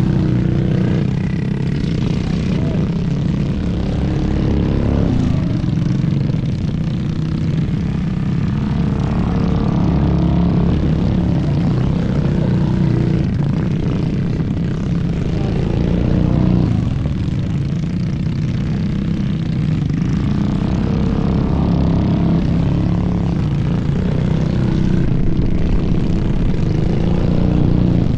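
Small single-cylinder engines running, their pitch rising and falling several times as they rev.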